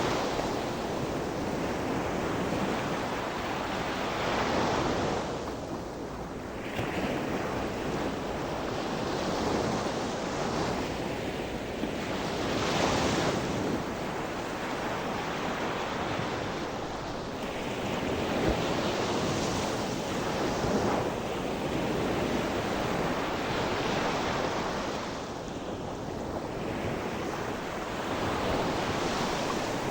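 Sea surf: waves breaking and washing in without a break, swelling every few seconds, with some wind noise on the microphone.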